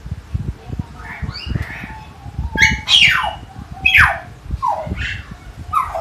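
Common hill myna calling: a run of loud calls, mostly sharp whistles that fall steeply in pitch, the loudest two about halfway through.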